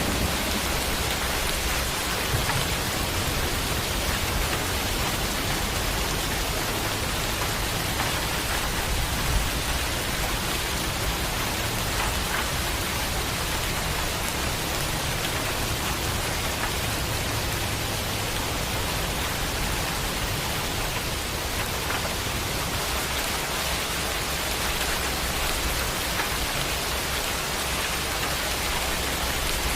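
Steady heavy rainfall, an even hiss of drops with faint patter.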